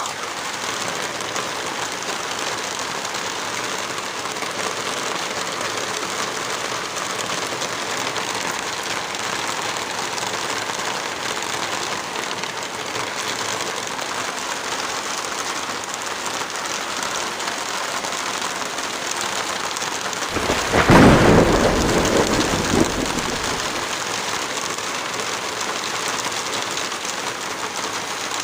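Heavy rain falling steadily, with a brief, louder low rumble about two-thirds of the way through that lasts around three seconds.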